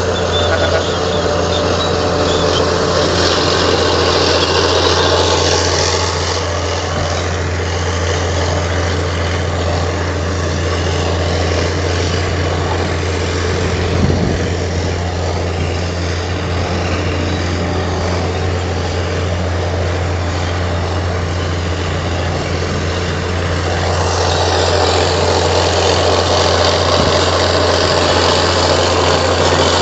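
Komatsu D58 crawler bulldozer's diesel engine running steadily, with a constant low hum. It grows louder and harsher for a few seconds near the start and again over the last six seconds. A single knock sounds about halfway through.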